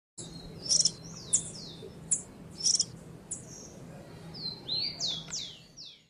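A small bird calling: sharp, high chips alternating with quick downward-sweeping whistled notes, the sweeps coming several in quick succession near the end.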